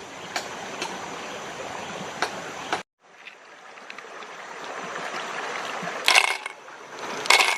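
Stream water running, cut off abruptly about three seconds in and then building back, with two loud sharp clatters near the end.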